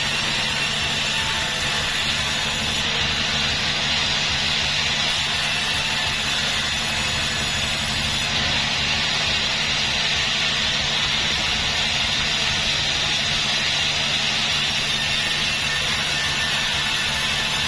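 Sawmill machinery running steadily: a low engine drone under a constant hiss from the saw, with no change in pace.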